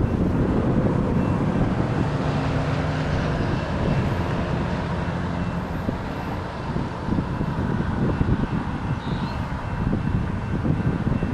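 A passing train: a heavy low rumble with the steady drone of diesel locomotive engines, easing slightly after about six seconds, with irregular low knocks later on.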